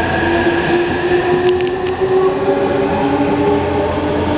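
E259 series Narita Express electric train accelerating out of the station as its cars pass close by. Its inverter-driven traction motors whine in several held, slowly drifting tones over the rumble of the wheels on the rails, with a couple of short clicks about a second and a half in.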